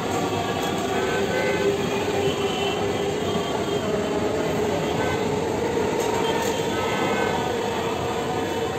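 Electric suburban local train (EMU) running along the track: a steady rumble with a held tone over it, easing slightly near the end as the last coach goes by.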